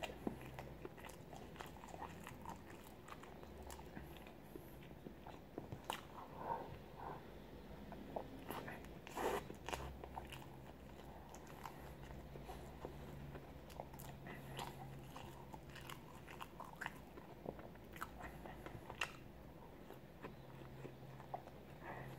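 Faint mouth sounds of a person biting and chewing a soft blueberry-jam sandwich: scattered smacks and clicks, thickest about nine seconds in.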